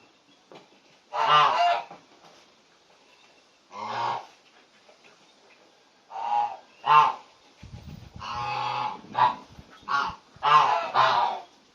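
Large bird giving repeated goose-like honking calls, each about half a second long. There are a few spaced calls at first, then they come faster in the second half.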